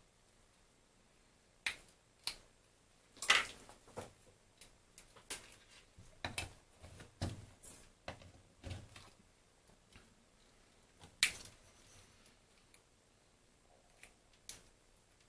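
Irregular small clicks and taps from handling meter probes and small plastic phone parts while probing connector pins. There are about a dozen, the sharpest a few seconds in and another a little past the middle.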